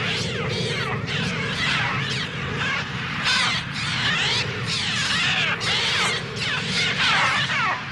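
A mass of attacking birds shrieking and cawing, many overlapping screeches sweeping up and down in pitch without a break. These are the film's synthesized bird cries, made on the Mixtur-Trautonium.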